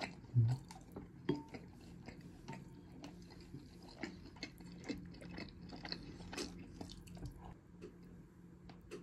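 Close-up mouth sounds of a person chewing soft food, sundae (Korean blood sausage), with short clicks of wooden chopsticks against a ceramic plate and bowl; a low thump about half a second in.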